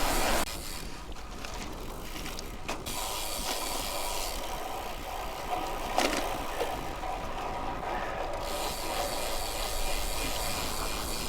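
Bicycle freewheel ticking steadily as the bike coasts, over road and wind hiss, with a sharp click about six seconds in.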